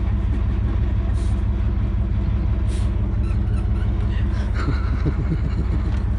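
Truck engine idling steadily at close range, an even low running sound that does not change pitch.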